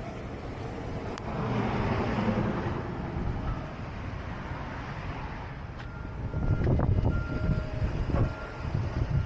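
Heavy vehicles rumbling in a road-construction work zone, swelling louder about a second in. From about six seconds in a faint high beep repeats a few times over uneven low rumbling.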